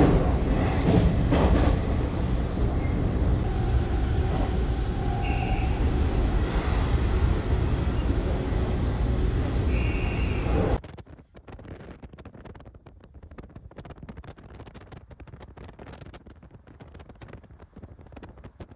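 Running noise of the West Express Ginga, a converted 117-series electric train, heard from inside a passenger car: a steady low rumble of the carriage moving along the track, with a few brief tones. About eleven seconds in it cuts abruptly to a much quieter, faintly crackling hum.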